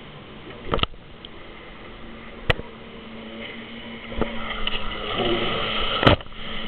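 Jet ski engine running steadily, getting louder from about four seconds in. Four sharp clicks or knocks break in, the loudest near the end.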